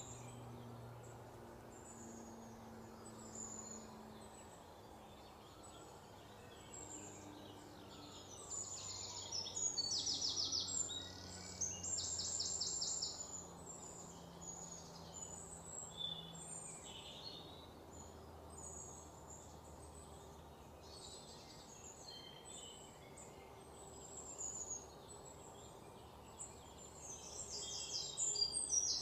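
Small birds chirping and trilling, with bouts of fast, louder trills about nine to thirteen seconds in and again near the end. A faint low steady hum sits underneath.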